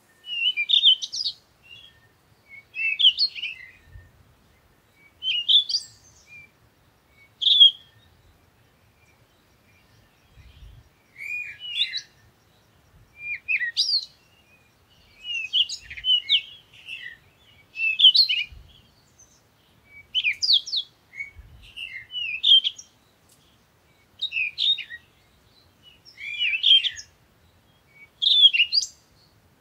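A small bird singing short chirpy phrases, one every second or two, with a pause of a few seconds a third of the way in.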